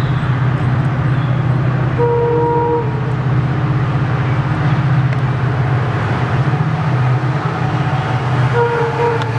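Train running with a steady low locomotive drone, and short horn toots about two seconds in and again near the end.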